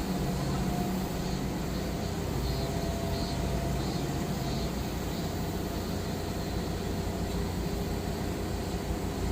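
Diesel engine of a Manitou MRT3570 rotating telehandler running steadily under work.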